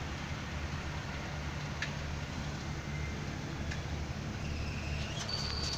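Engine idling steadily with a low hum, under a constant hiss. There is a short high chirp near the end.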